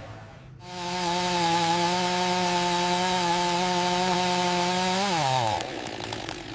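A small petrol engine running at steady high revs with a buzzing, hissing note, then winding down in pitch about five seconds in.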